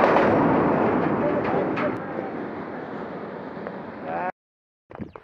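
Passenger train on a railway bridge, its noise fading steadily as the last coaches pull away. A short voice comes in about four seconds in, and then the sound cuts off abruptly.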